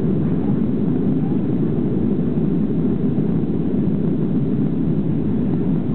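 Airliner cabin noise during take-off: the jet engines and airflow make a steady, loud low rushing sound.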